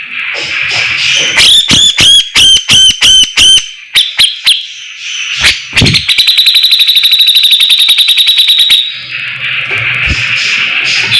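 Songbird song from a masteran training recording for a 'fighter' bird: a quick series of about eight looping whistled notes, a few sharp clicks, then a fast, even, high trill held for about three seconds, ending in a buzzy chatter.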